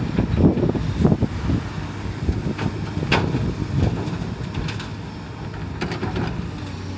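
Excavator's diesel engine running steadily, with several sharp metallic clanks and knocks scattered through.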